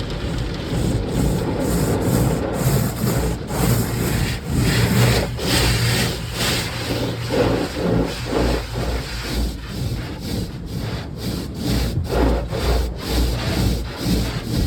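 Automatic tunnel car wash running over the car, heard from inside the car: a steady low rumble with rapid, irregular scrubbing and slapping strokes, typical of rotating cloth brushes working against the bodywork.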